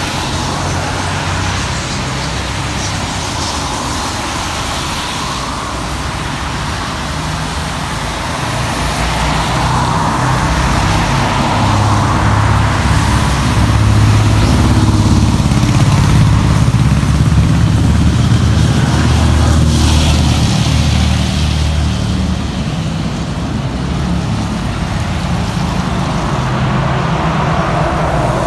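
Road traffic: vehicles passing on a wet road, their tyre hiss swelling and fading over a steady low engine rumble. It is loudest from about halfway through.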